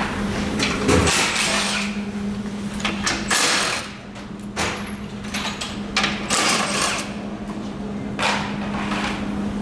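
Workshop power tool running in short bursts, with knocks and clatter of parts, over a steady low hum.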